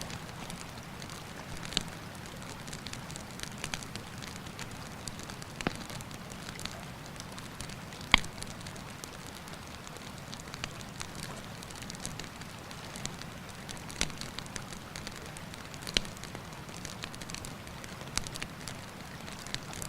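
Wood campfire crackling, with irregular sharp pops, the loudest about eight seconds in, over the steady rush of a river.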